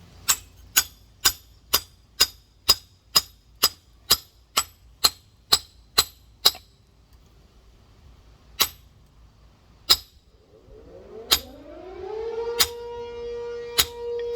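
Steel rock hammer striking a large geode, about fourteen sharp clinking blows at roughly two a second, then five slower, scattered blows, to split the stone along its crack. About eleven seconds in, a siren winds up, rising in pitch, then holds a steady tone.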